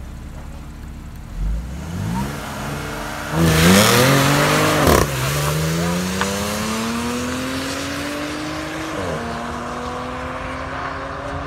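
Audi B8 S4's supercharged 3.0-litre V6 launching hard down a drag strip. Engine pitch climbs as it pulls away, with the loudest burst about three and a half to five seconds in. It then falls back at upshifts about five and nine seconds in, and climbs again each time as the car accelerates into the distance.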